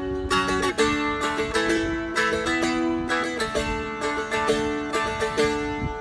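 Seagull Merlin dulcimer-style guitar tuned D-A-D being played: a quick melody of plucked and strummed notes over drone strings that keep ringing underneath.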